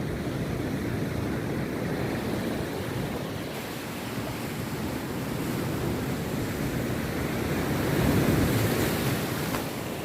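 Rough sea surf breaking and washing on a beach in a steady rush that swells and eases, with the loudest wave about eight seconds in.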